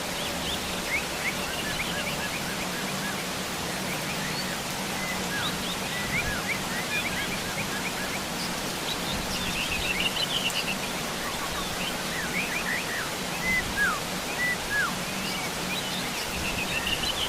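Heavy rain falling steadily, with wild birds calling over it: many short, downward-sweeping chirps and a few bursts of rapid chattering.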